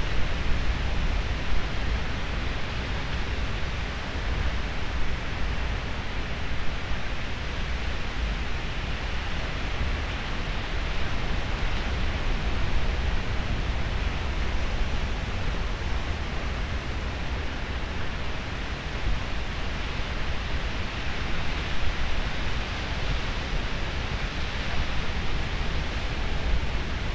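Pacific Ocean surf washing with wind, a steady even noise with a deep low rumble.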